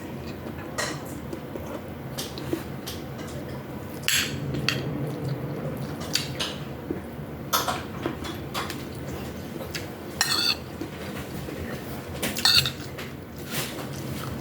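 Cutlery clinking and scraping against a dish while eating misua with sardines: scattered single clinks with a few longer scrapes every second or two.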